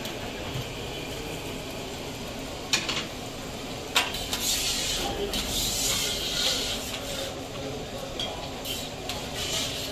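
Parathas sizzling as they fry on a large flat tawa griddle, with two sharp metallic clicks of a spatula and tongs against the griddle about three and four seconds in. The sizzle grows louder after the second click.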